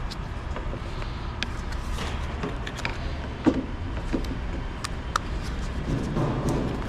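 Scattered plastic clicks of trim molding clips being handled and worked off a molding, with one sharp snap about three and a half seconds in, over a steady low hum.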